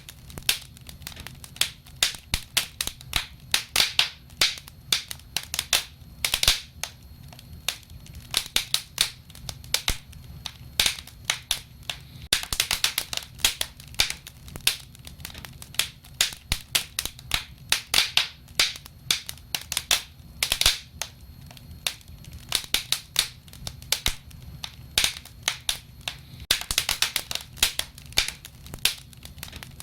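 Wood fire burning, with dense irregular crackling and sharp pops over a low steady rumble of flames.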